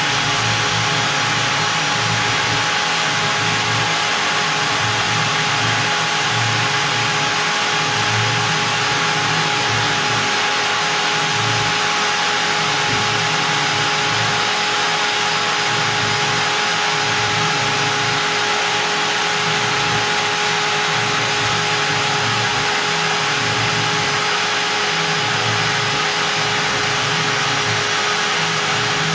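Stepcraft M1000 CNC router's spindle running at 25,000 rpm as a 4 mm up-down compression bit cuts beech: a steady whine over a broad cutting noise, with an uneven low rumble as the bit moves through the wood.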